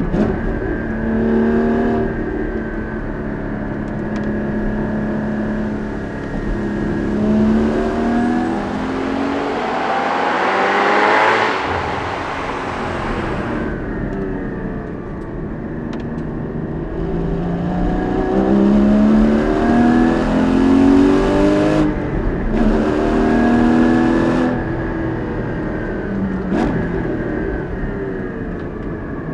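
Porsche 981 Cayman GT4's naturally aspirated flat-six with sports exhaust, driven hard through a run of curves: the engine pitch climbs and falls again and again as it pulls, lifts and shifts through the manual gearbox. A rushing noise swells up about ten seconds in and fades away by about fourteen seconds.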